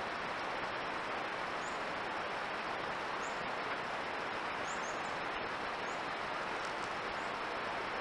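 Steady hiss from a trail camera's microphone, with about six short, high-pitched bird chips scattered through it.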